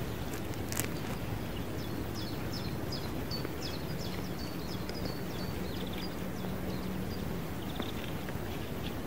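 A small bird singing a run of short, high, down-slurred notes, about three a second, over steady outdoor background noise.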